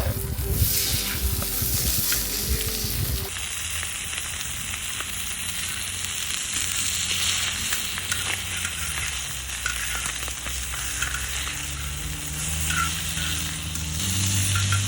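Pork belly frying in a cast-iron cauldron (gamasot): a steady, dense sizzle of spitting fat, which one of the cooks likens to the sound of rain. The sound changes abruptly about three seconds in.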